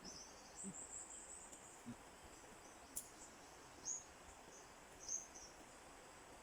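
Near quiet, with faint, short, high-pitched chirps of insects every second or so and a single sharp click about three seconds in. No chainsaw is running.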